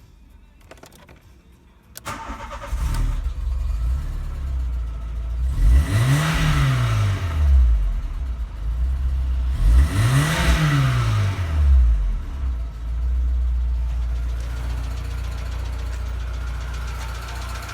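VW Golf 3's 1.6-litre AFT four-cylinder petrol engine starting about two seconds in and settling to idle. It is revved twice, rising and falling back each time, then idles steadily.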